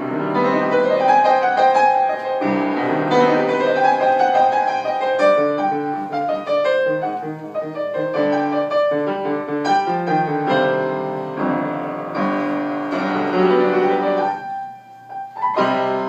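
Solo piano played by a student, a steady run of single notes and chords, with a short break near the end.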